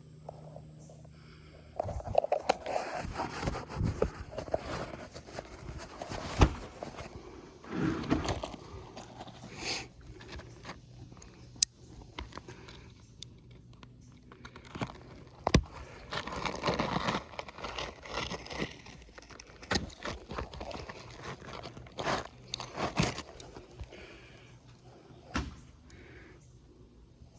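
Hand work on an asphalt shingle roof: irregular gritty scraping and crunching, broken by scattered sharp knocks.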